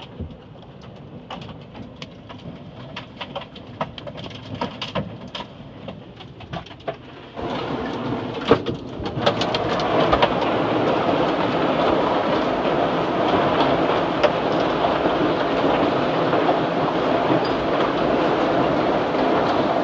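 Hailstones striking a car's body and glass, heard from inside the car: scattered sharp ticks at first, then about seven seconds in a dense, steady drumming of hail and rain takes over and grows louder a couple of seconds later.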